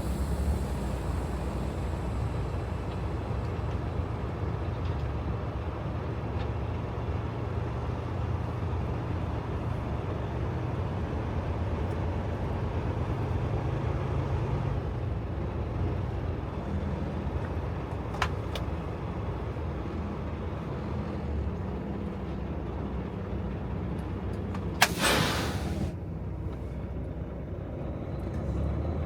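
Semi truck's diesel engine running steadily, heard from inside the cab, with one sharp hiss of air brakes near the end lasting about a second.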